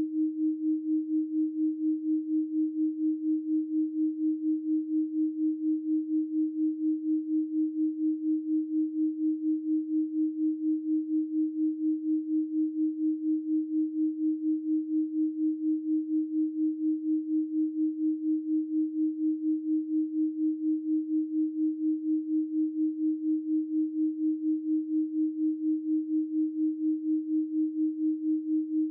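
A steady electronic pure tone at 312 Hz, a single pitch with nothing else above it, pulsing evenly and rapidly in loudness.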